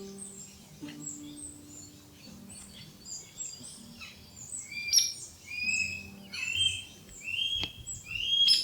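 Wild birds chirping and calling: many short high chirps and down-slurred notes, growing busier and louder about halfway through.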